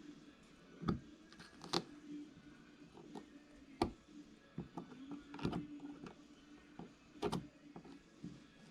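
Scattered clicks and light taps of small RC differential parts being handled and fitted by hand, with about five sharper clicks spread through.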